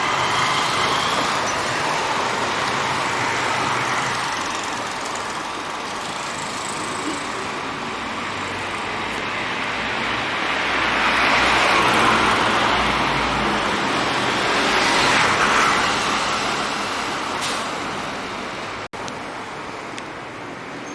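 Road traffic: motor vehicles running and passing, with the noise swelling twice as vehicles go by, then cutting off briefly near the end.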